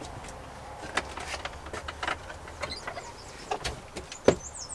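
Light knocks and clicks of cookware being handled, with a sharper tap near the end, over a low steady hum.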